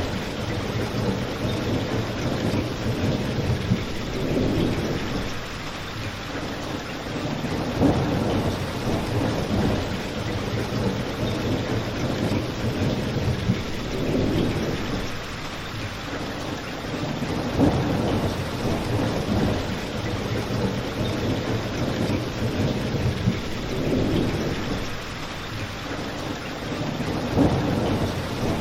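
Steady rain with a low rumble that swells and fades every few seconds, and a few sharp cracks on top.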